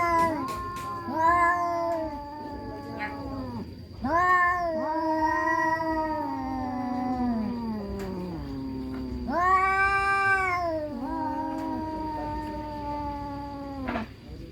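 Two domestic cats caterwauling at each other in a fight standoff: long, drawn-out yowls that waver and slide down in pitch, swelling louder about four seconds in and again around nine seconds.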